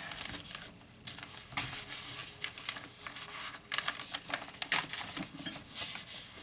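Paper rustling and crinkling with irregular light clicks and taps as the pages and tucked paper ephemera of a handmade junk journal are handled and turned.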